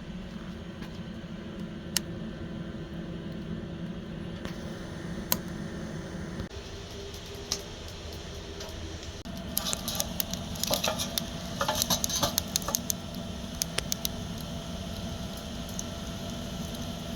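A steady low hum, with a cluster of quick crackles and clicks about ten to thirteen seconds in.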